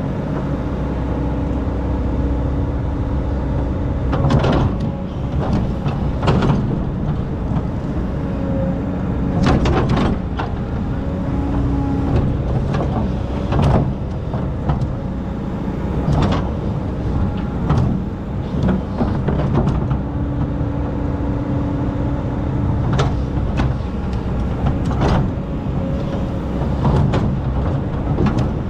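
Excavator's diesel engine running steadily under load, with a humming tone from the hydraulics that comes and goes as the arm works. Irregular sharp knocks and scrapes from the bucket digging and dumping sand, about every two seconds.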